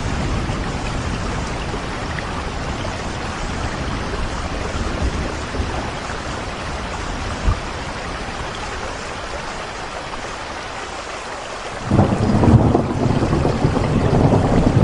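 Steady rain falling, with a low rumble of thunder underneath; about twelve seconds in a louder, sudden peal of thunder breaks in and keeps rolling.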